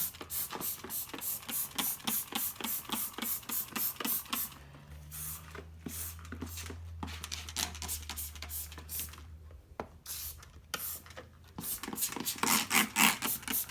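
Trigger spray bottle of cleaner squirted rapidly, about three or four short hissing squirts a second. The squirts stop for several seconds in the middle, then start again near the end.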